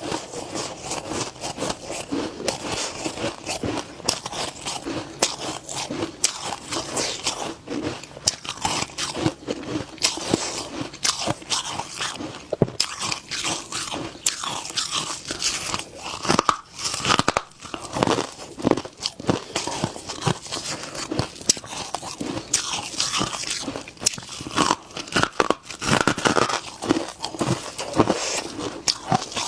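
A person biting and chewing freezer frost, with a dense run of quick, sharp crunches and crackles.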